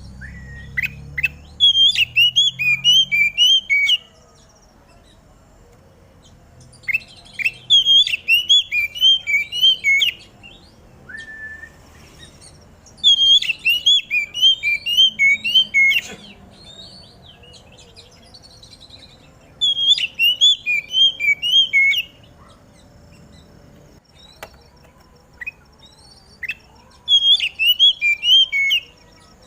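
Oriental magpie-robin (kacer) singing in five bursts, each a fast run of repeated whistled notes that steps down in pitch over two to three seconds, with pauses of a few seconds between.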